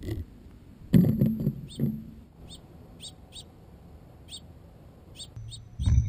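A small bird chirping in short, repeated notes a few tenths of a second apart. About a second in there is a brief loud flurry of low bumps, and just before the end a sudden loud flutter of wingbeats close to the feeder camera.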